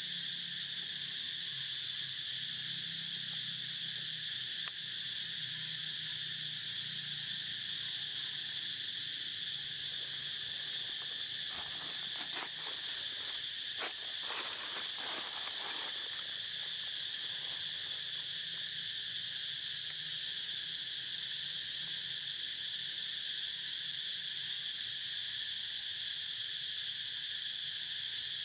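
Steady chorus of insects droning at a high pitch without a break. Between about eleven and sixteen seconds in there is a short spell of clicks and rustling.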